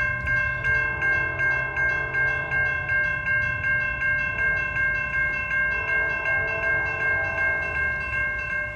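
Railroad grade-crossing warning bell ringing in a fast, even rhythm, nearly three strikes a second, over the low rumble of a Norfolk Southern train.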